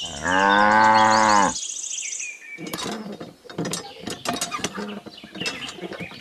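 A cow moos once, a long call of about a second and a half that sags slightly in pitch at its end. Then, from about two and a half seconds in, a run of quick, irregular small clicks and creaks comes from the lever of a miniature hand pump being worked up and down by hand.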